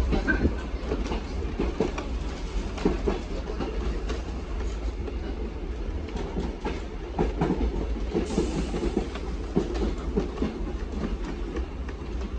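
Passenger train running along the track, heard from on board: a steady low rumble with irregular clicks and clacks of the wheels over the rail joints.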